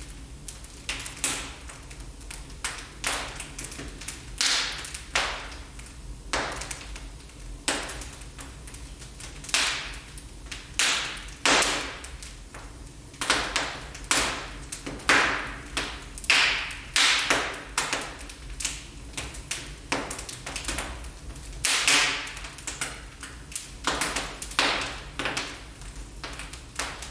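Wood fire in a fireplace crackling, with irregular sharp pops and snaps, some ringing briefly, over a faint steady low rumble.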